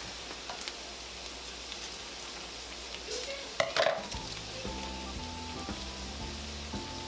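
Ground beef sizzling as it fries in a pan. There is one short, sharp noise a little past halfway, and faint background music comes in during the second half.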